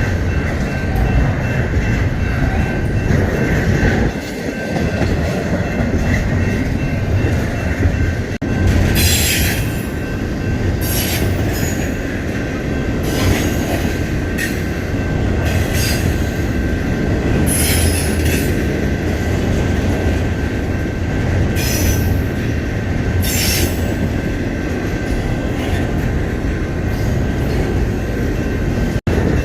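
Freight train cars rolling past with a steady heavy rumble, steel wheels on rail. From about a third of the way in come repeated short high-pitched wheel squeals and screeches.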